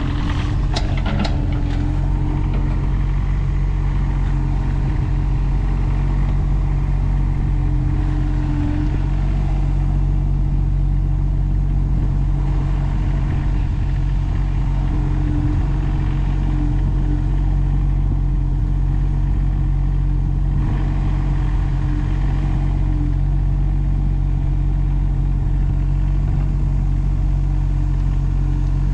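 Engine running steadily at an even speed, with a constant low hum and a few clicks about a second in.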